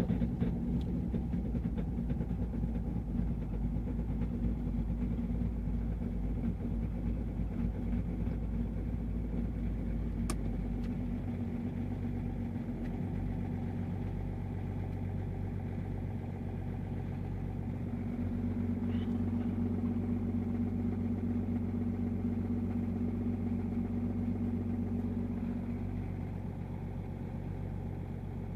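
BMW E39 525d's 2.5-litre inline-six common-rail diesel idling just after a cold start in −19.5 °C frost. The idle note shifts slightly about twelve seconds in and again around eighteen seconds, and there is a single sharp click about ten seconds in.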